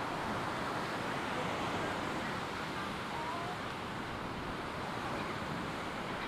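Ocean surf breaking and washing on the beach, a steady, even wash of noise.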